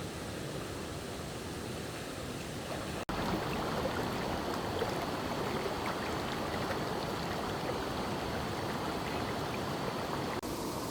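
Fast-flowing stream water rushing steadily. It breaks off abruptly about three seconds in and comes back louder, and breaks off briefly again near the end.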